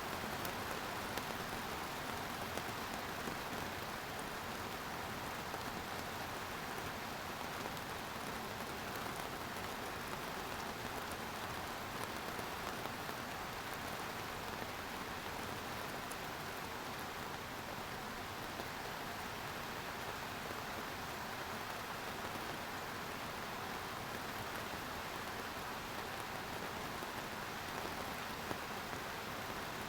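Steady rain falling, an even hiss of many drops with scattered small patters, holding constant throughout.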